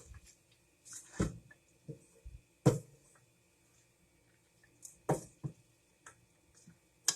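A spoon clinking and scraping against a pan while poha is mixed in it: a few separate, irregular knocks with softer ticks between them.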